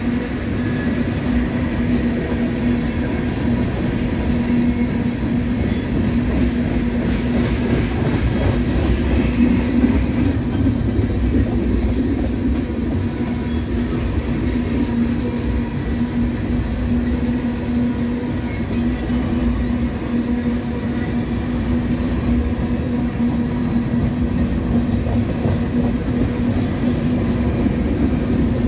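Freight train's tank cars and coil steel cars rolling past, a continuous rumble of steel wheels on rail with a steady low hum.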